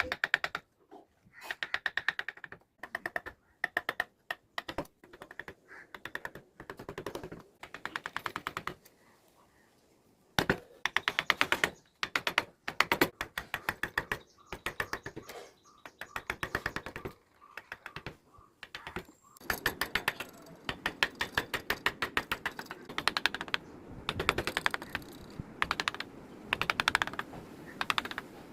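Wood carving tools working teak: rapid trains of sharp tapping strikes, many a second, in short bursts with brief pauses. The strikes stop for about a second about a third of the way in.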